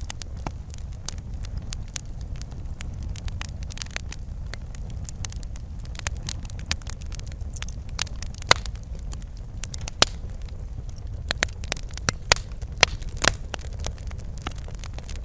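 Wood fire burning in a fireplace: a steady low rumble with irregular sharp crackles and pops, a few louder snaps in the second half.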